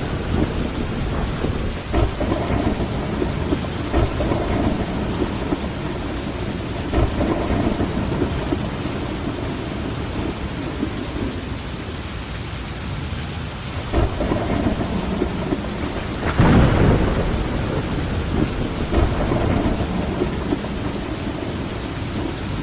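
Steady rain on window glass, with low rumbles of thunder swelling several times; the loudest rumble rolls in about two-thirds of the way through.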